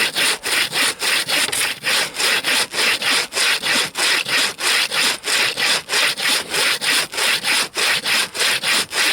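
Bow saw with a 70 cm blade cutting a frozen log in fast, even back-and-forth strokes, about four rasps a second. The raker teeth clear the sawdust out of the cut as it goes.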